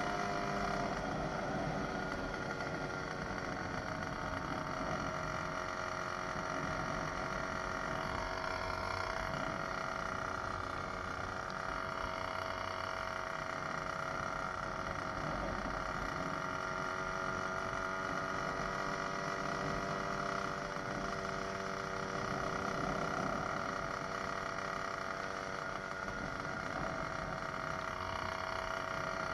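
Small 66cc two-stroke motorized bicycle engine running steadily under way, its pitch drifting slightly up and down with the throttle.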